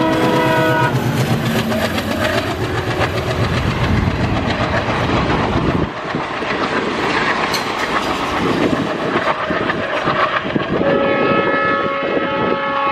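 An Indian diesel passenger train passes close by: a multi-tone train horn cuts off about a second in, then come the locomotive's engine and the rhythmic clickety-clack of coach wheels over the rail joints. A multi-tone train horn sounds again near the end.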